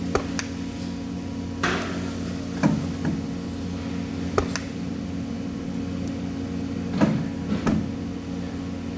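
Steady hum of workshop machinery, with about eight sharp knocks and clicks scattered through it.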